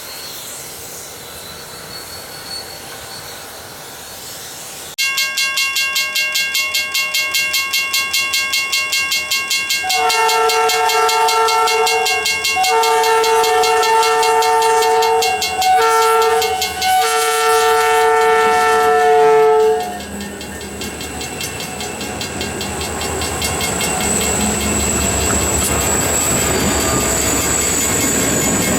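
Grade-crossing warning bell starting up and ringing rapidly, about four strokes a second. Then a freight locomotive's air horn blows the crossing signal, long, long, short, long. As the horn ends, the locomotives' rumble grows steadily louder while the bell keeps ringing.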